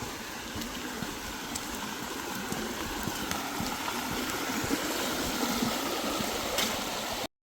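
Steady rushing water with a few faint ticks, growing slightly louder, then cut off abruptly about seven seconds in.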